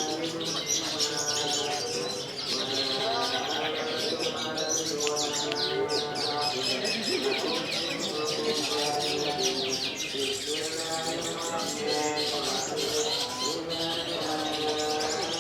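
Long-tailed shrikes (cendet) singing in competition: a dense, unbroken chorus of rapid high chirps and trills over lower warbling phrases.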